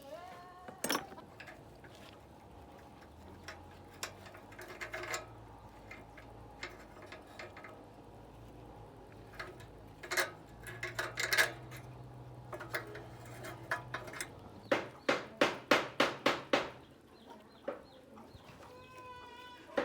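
Chickens clucking, with scattered sharp knocks and clicks and a quick run of about ten taps near the end.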